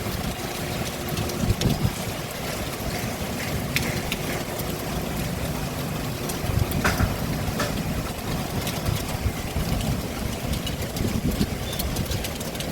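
Rain falling, with a steady low rumble underneath and scattered sharp taps throughout.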